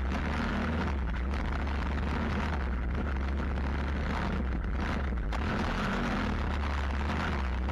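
Stomp WPB 125 pit bike's 125 cc four-stroke single-cylinder engine running under way, heard from on the bike. The note holds steady apart from a brief dip about five seconds in.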